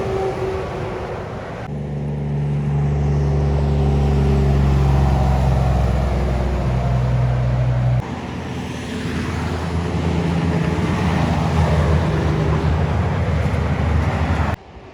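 A motor vehicle's engine running with a steady low hum. The sound changes abruptly three times.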